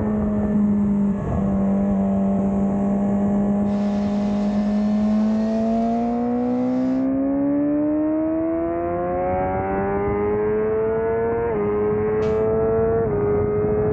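Suzuki GSX-R600's inline-four engine heard from onboard the bike. It holds steady revs through a corner, then revs up smoothly under hard acceleration and shifts up twice near the end, each shift a sudden drop in pitch before it climbs again.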